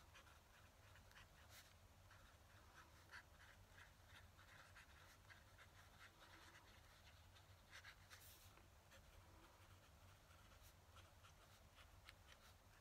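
Very faint scratching of a fountain pen nib on paper in short, quick strokes as someone writes by hand, with a brief louder rustle about eight seconds in.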